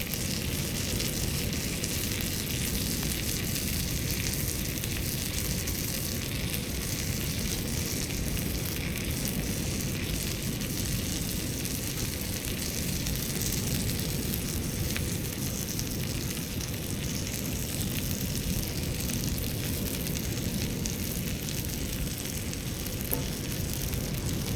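Food sizzling steadily as it fries in a pan.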